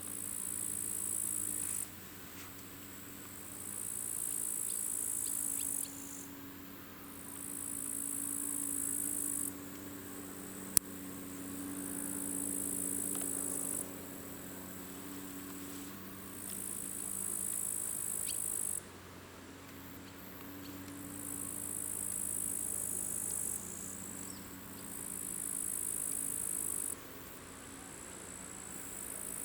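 A singing insect buzzing in repeated high-pitched phrases, each a few seconds long, with short pauses between them. A faint steady low hum runs underneath, and there is a single sharp click about a third of the way through.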